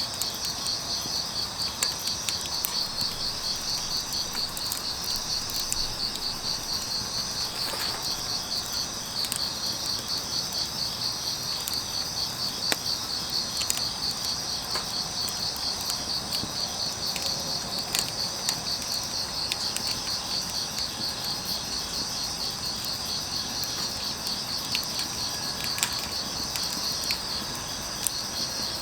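Crickets chirping in a continuous, rapidly pulsing trill, over a wood fire crackling with scattered sharp pops and a steady soft patter.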